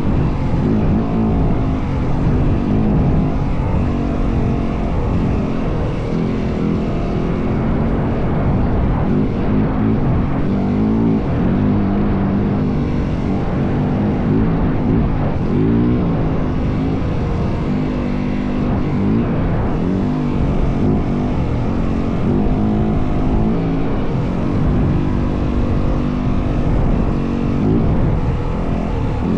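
Yamaha WR450F dirt bike's single-cylinder four-stroke engine running under way off-road, its pitch rising and falling again and again as the throttle is worked and gears are changed.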